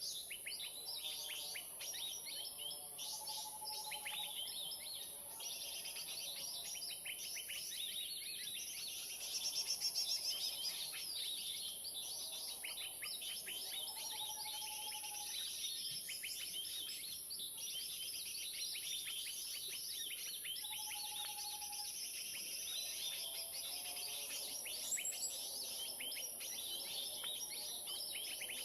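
Dense, continuous chatter of many small birds' scolding calls and chirps: a 'keributan' (commotion) lure recording played from an MP3 player to draw birds to the lime sticks. A steady high-pitched hiss runs underneath, and a short low whistle sounds three times.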